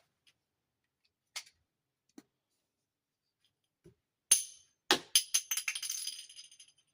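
Small hard plastic dollhouse pieces being handled: a few light clicks, a sharp click, then a rapid clattering rattle that dies away over about two seconds.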